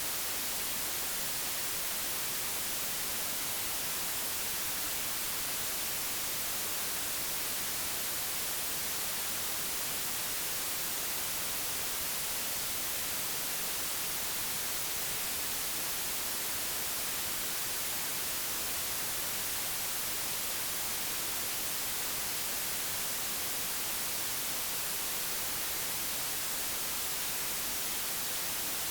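Steady digitally generated white noise: an even hiss with no pitch or variation, strongest in the high frequencies.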